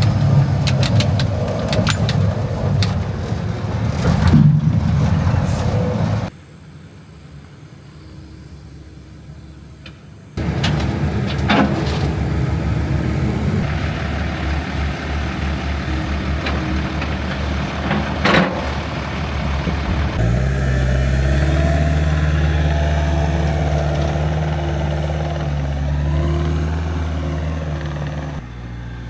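An engine running, with a few sharp clanks. The sound changes abruptly several times and drops much quieter for about four seconds a quarter of the way in. In the last third the engine hum is steady and even.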